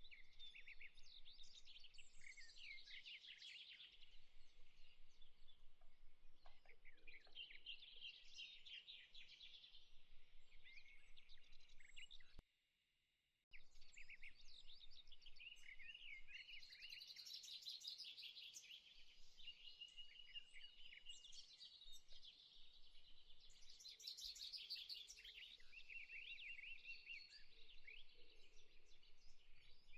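Quiet birdsong: many small birds chirping and trilling, with a short dropout of about a second near the middle.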